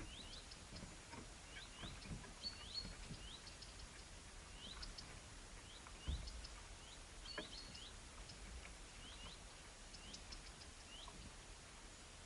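Birds giving faint, short rising chirps, a few every second, over soft scratching and tapping, with a low knock about six seconds in.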